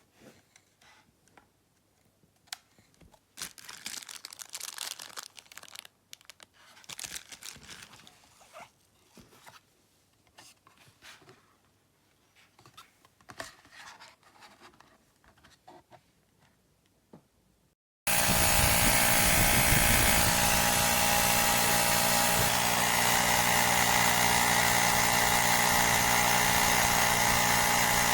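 Quiet handling clicks and rustles, then, about two-thirds of the way in, the Woowind AP2-P cordless electric tyre pump's compressor starts abruptly and runs steadily at a constant pitch.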